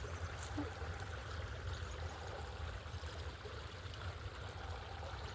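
Steady outdoor background noise: an even hiss over a continuous low rumble.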